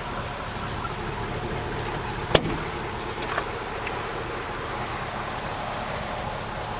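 A sharp click a little over two seconds in and a fainter one about a second later, over a steady background hum.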